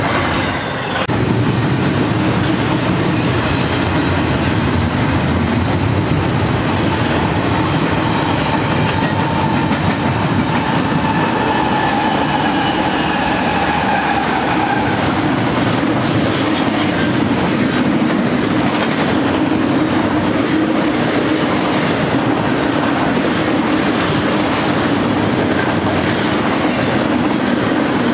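BNSF double-stack intermodal freight train passing close by: a steady rumble and clickety-clack of the stack cars' wheels on the rails. A faint whine shows around the middle, as a mid-train locomotive goes by.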